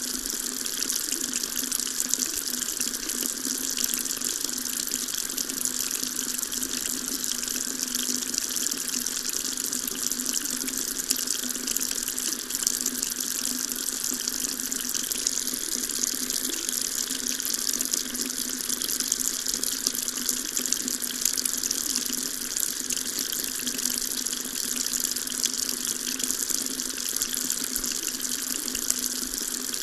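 Water tap running steadily, a continuous stream of water splashing into a sink with an even, bright hiss.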